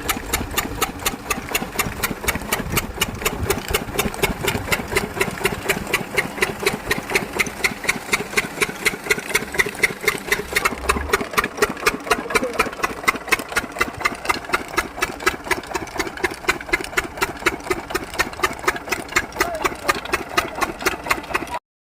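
12 horsepower diesel engine of a water pump set running steadily, its firing beat quick and even.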